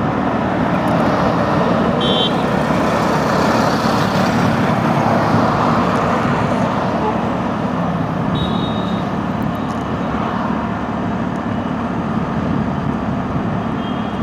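Steady rush of wind and road noise while riding a scooter in traffic, with the scooter's engine underneath. Short high beeps sound about two seconds and about eight seconds in.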